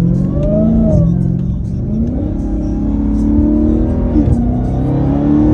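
Dodge Hellcat's supercharged 6.2-litre Hemi V8 accelerating hard through the gears: the engine pitch climbs, falls at an upshift about a second in, climbs again for a few seconds, falls at a second upshift, and then climbs once more.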